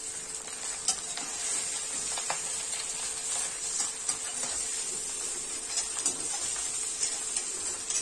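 Idli pieces sizzling in a steel kadhai with a mustard-seed tempering, stirred and tossed with a perforated steel slotted spoon. A steady sizzle with scattered light clinks and scrapes of metal on the pan.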